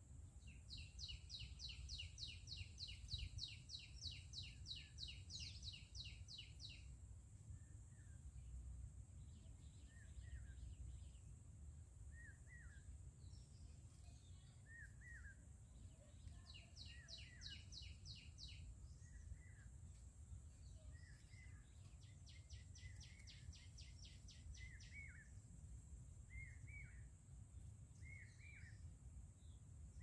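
Faint birdsong: three bouts of rapid high-pitched trilling and short falling chirps repeated every second or two, over a faint low rumble.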